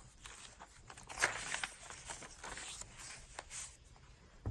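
Paper pages and inserts of a handmade junk journal being handled and turned, a soft rustling and crinkling with small taps.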